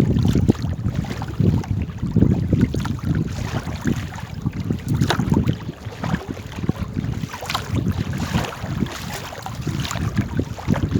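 Wind buffeting the microphone in an uneven, gusty rumble, with scattered short splashes or knocks from a paddled boat on the water.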